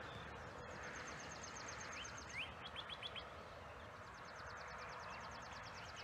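Small songbirds singing faintly: rapid trills of high notes, some phrases opening with quick rising whistles, over a steady low outdoor background hiss.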